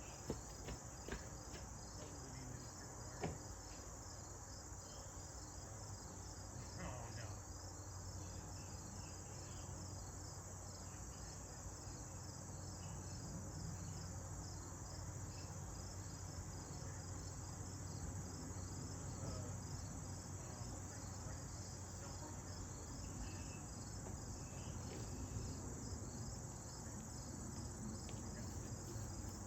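Insects chirping in a steady, rapidly pulsing chorus, with a few faint clicks in the first few seconds.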